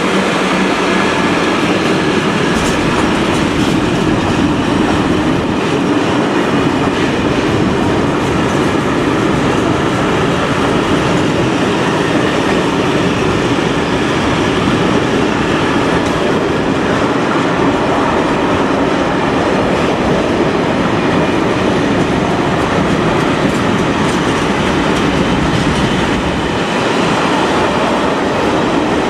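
A train rolling past close by, with a steady clatter of wheels over the rails that holds for the whole stretch.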